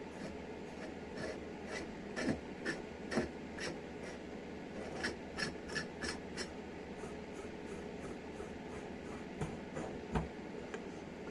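Light metal clicks and taps of hydraulic jack parts being handled and fitted during reassembly, coming in irregular clusters over a steady faint hiss.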